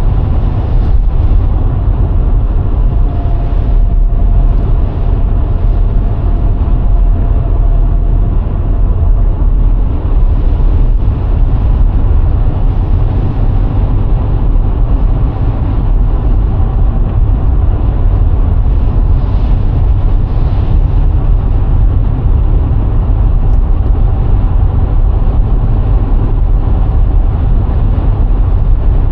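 Steady driving noise from a moving VW Golf IV with its 1.6-litre four-cylinder petrol engine: engine, tyre and wind noise, heaviest in the low end, with a faint steady whine over it.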